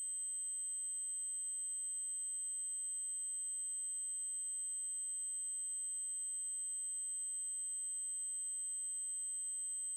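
Synthesized 8192 Hz triangle-wave tone, held steady at one high pitch without a break.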